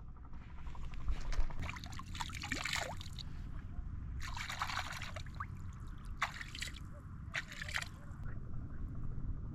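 Liquid being poured or splashed in four short spells, the first two longer.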